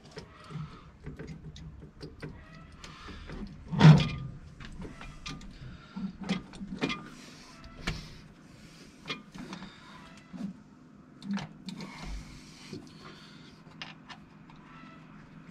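Metal tools and parts clinking and knocking during hands-on repair work, with one loud knock about four seconds in and scattered lighter clicks and scrapes.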